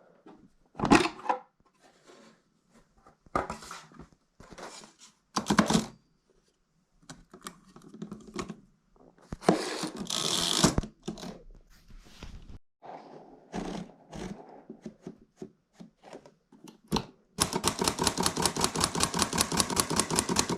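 Manual typewriter being typed on: separate key strikes at irregular intervals, a longer rustling noise about ten seconds in, then a fast, even run of key strikes over the last three seconds.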